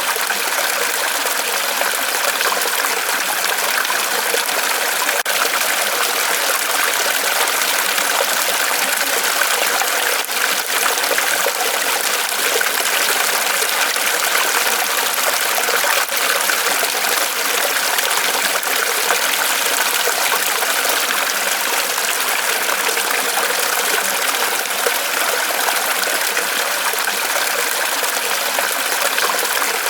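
Water trickling and splashing steadily from a small waterfall off a tree trunk, an even splashing hiss with no pauses.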